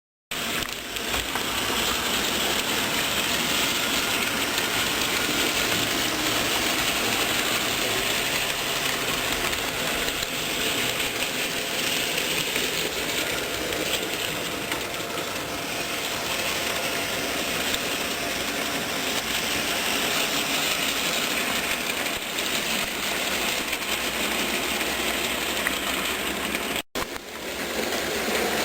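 HO-scale model train, a BB 67554 diesel locomotive model hauling covered wagons and refrigerator wagons, running along the track: a steady mechanical whirr and rattle of motor and wheels on rails. It breaks off for a moment near the end, then resumes.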